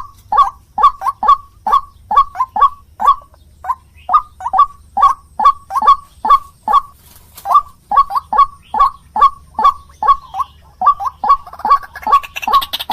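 White-breasted waterhen (ruak-ruak) calling, short harsh notes repeated steadily about two to three times a second.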